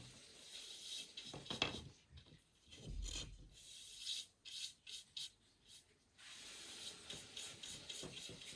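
A paintbrush rubbing in strokes along a wooden baseboard. The strokes are irregular, with a lull in the middle, and run steadier and quicker near the end.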